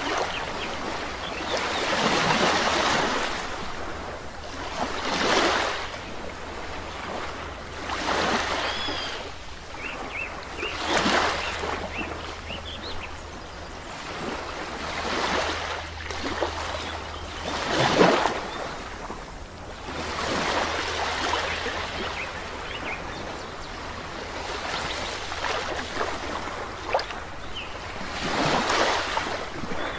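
Sea waves breaking on a beach, the wash swelling and falling back in a surge every three seconds or so, with a few faint bird chirps now and then.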